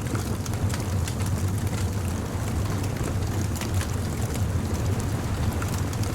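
Beach bonfire crackling with scattered sharp pops over a steady low rumble of surf.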